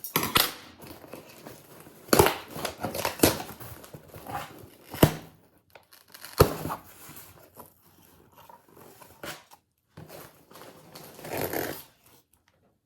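Packaging being crinkled and torn open by hand, in bursts of rustling with several sharp clicks and a longer crinkle near the end.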